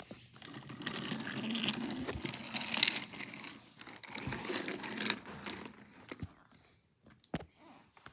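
Rustling, crinkling handling noise with scattered clicks; it fades after about six seconds, leaving a few isolated sharp clicks.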